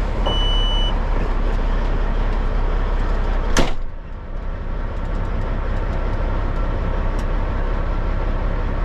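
Dump truck engine running steadily, heard from inside the cab, with a short high beep just after the start and a single sharp clunk about three and a half seconds in.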